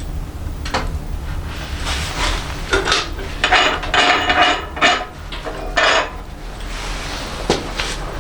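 A run of metal clanks and scrapes, some ringing briefly, thickest in the middle few seconds, over a steady low rumble.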